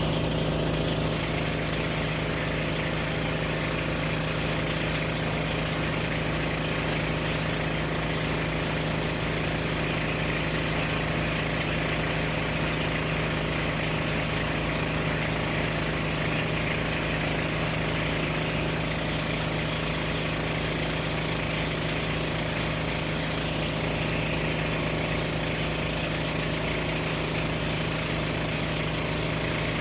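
Boat engine running steadily at a constant speed, with no change in pitch or level.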